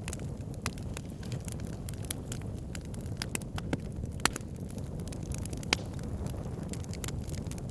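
Wood fire burning in a fireplace: a steady low rumble of flames with frequent sharp crackles and pops, a couple of louder snaps a little past the middle.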